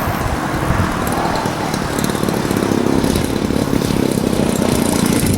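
50cc gas engine of a large RC aerobatic plane idling as it glides in to land, growing a little louder as it comes closer.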